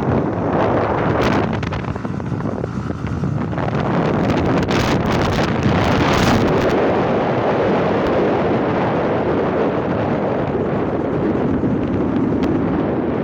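Heavy wind rushing over the microphone of a moving motorcycle, with the bike's running and road noise underneath. The hiss grows brighter for a couple of seconds near the middle.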